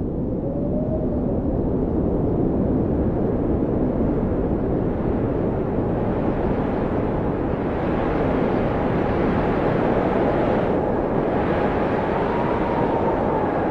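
Blizzard wind blowing steadily in a low rumble, with faint rising and falling howling tones. A stronger, hissier gust builds about eight seconds in.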